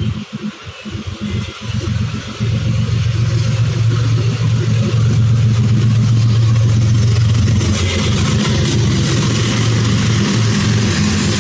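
WDG-4G diesel-electric locomotive's engine running with a steady low drone, uneven for the first couple of seconds. A rushing noise grows over it from about eight seconds in.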